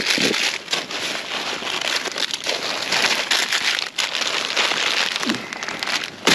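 Plastic bags and packaging rustling and crinkling continuously as items are rummaged through and handled in a dumpster, with many small crackles.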